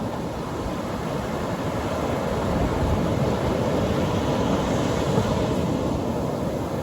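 Atlantic Ocean surf breaking on a beach: a steady wash of noise that swells about halfway through and then eases off.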